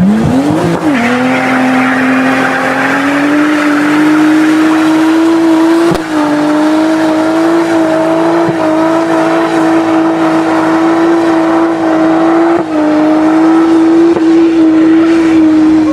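A high-performance car engine revs up quickly, then holds a loud, steady high note under hard acceleration, with two brief breaks in the sound partway through.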